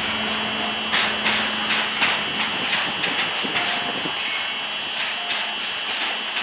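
Freight train wagons rolling past, their wheels clacking over rail joints roughly two or three times a second over a steady rumble, with a thin high steady whine throughout.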